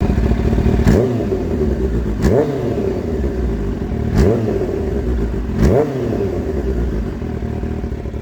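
Motorcycle engine idling and revved in four quick throttle blips, each a sharp rise in pitch that falls straight back to idle.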